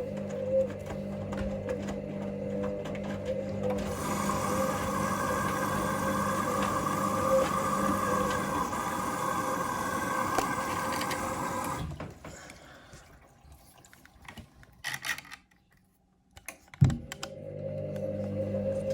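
Hoover Link washing machine in its main wash: the motor hums and turns the drum, then stops about twelve seconds in, leaving a quiet pause with a few small clicks, and starts again with a sharp click near the end, the usual tumble-pause-tumble of a wash action.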